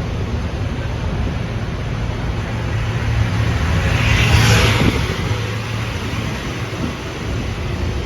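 Metro-North M3A electric multiple-unit train running into the station, a steady low rumble and hum with wind on the microphone. A hiss swells and fades, loudest about four and a half seconds in.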